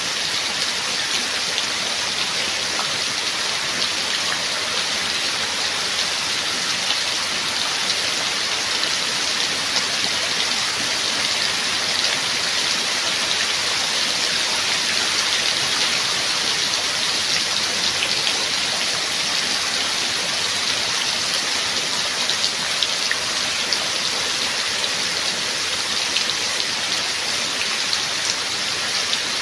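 Steady rain falling, an even hiss made of many fine drops spattering on a surface, with no thunder.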